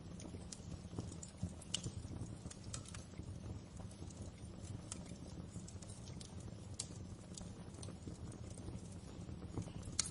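Wood fire crackling in a fireplace: a steady low rumble of burning with irregular sharp pops and snaps, the sharpest about two seconds in and again at the very end.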